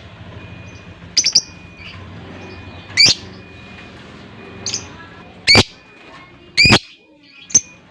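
Lovebird giving short, shrill chirps, about seven in all, spaced a second or so apart, each one a quick upward sweep.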